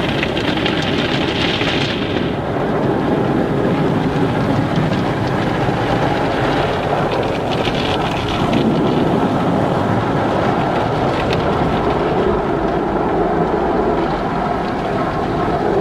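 Car wash: water spraying and drumming against a car over a steady rumble of machinery. The hissing spray swells at the start, again about halfway through, and near the end.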